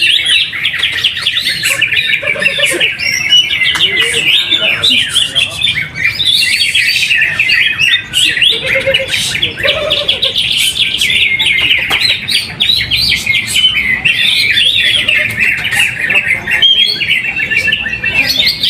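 Cucak hijau (green leafbird) singing loudly in a long, unbroken run of fast, chattering and warbling high notes.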